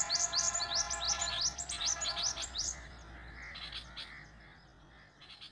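Small birds chirping in a fast run of short, sharply falling high notes, about four to five a second, which stop about three seconds in; a few scattered chirps follow. A steady hum sounds along with the run until it stops.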